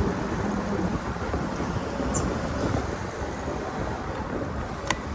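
Steady rumble of wind on the microphone and road noise while riding a bicycle, with one sharp click near the end.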